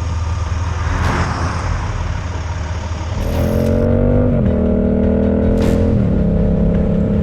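Motorcycle engine and wind rumble while riding, with a vehicle whooshing past about a second in. From about three seconds in the engine note climbs steadily and drops sharply twice, as the bike accelerates and shifts up through the gears.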